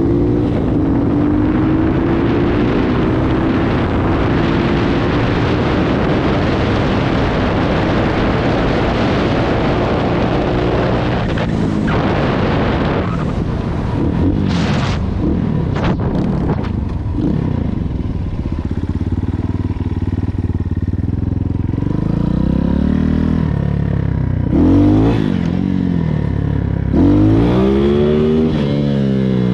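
Small Chinese dirt bike engine running under way. Its pitch climbs slowly over the first ten seconds, then the throttle is rolled on and off, with several quick revs up and down near the end.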